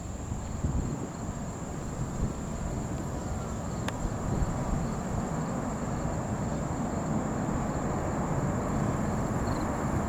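Low rumble of jet aircraft engines at an airport, slowly building, over a steady high-pitched drone of insects.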